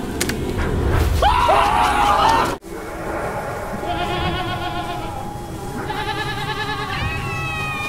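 Goat-like bleats and screams: a loud rising cry about a second in that breaks off suddenly, then quavering bleats and a long, high, held bleat near the end.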